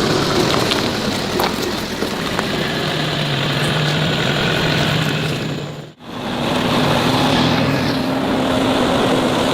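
Vehicle engine running steadily, with a brief sharp dropout about six seconds in, after which the engine hum comes back at a higher pitch.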